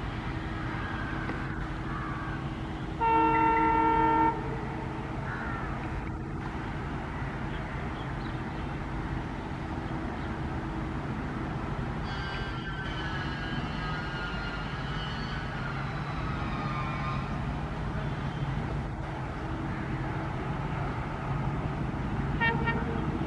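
A locomotive horn sounds one loud blast of a little over a second, about three seconds in, over a steady low rumble of a running train. A short horn note comes again near the end.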